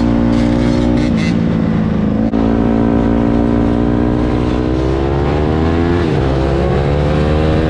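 Vehicle engine running under way, its pitch climbing, then dropping sharply about six seconds in, as at a gear change, then climbing again, over a low rumble.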